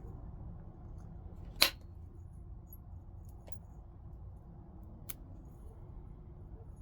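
Flint being knapped: one sharp, loud click of a tool on the stone with a brief ring, about a second and a half in, then two faint clicks later on.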